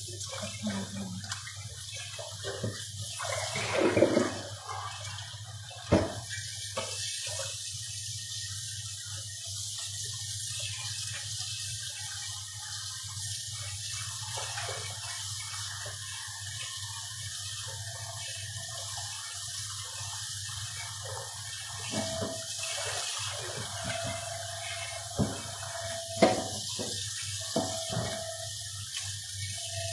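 Water running steadily from a kitchen tap into a sink, with a few knocks and clatters of things being handled in it, the loudest about four and six seconds in.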